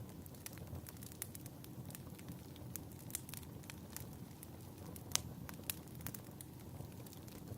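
Fireplace fire crackling: irregular sharp pops over a low, steady rumble of the flames, with the loudest pop about five seconds in.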